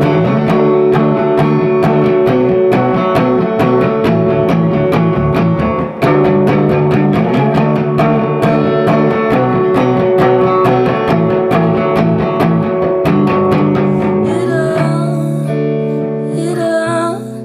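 Live band music: an instrumental guitar passage of quickly picked notes over a steady bass line.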